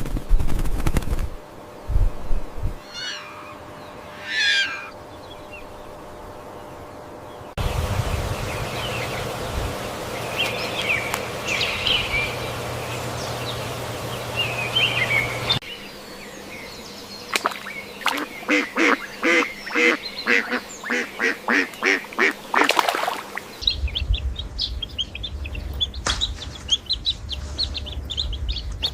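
Bird calls in several short clips, the loudest a run of quick repeated calls, about two or three a second, in the middle, which fit a duck quacking. High chirping near the end.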